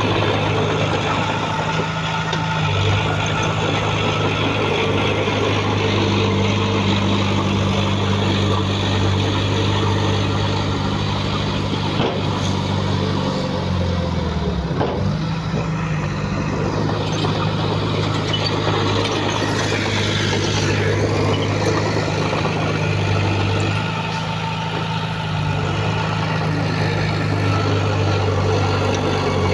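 Heavy diesel earthmoving engine running steadily under load. Its note dips briefly and recovers about halfway through.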